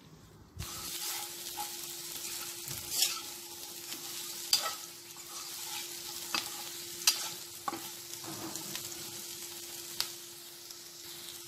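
Steamed egg cubes with onions and curry leaves sizzling in hot oil while a metal spatula stirs them. Sharp clicks of the spatula striking the pan come every second or two. The sizzle starts about half a second in, with a faint steady hum underneath.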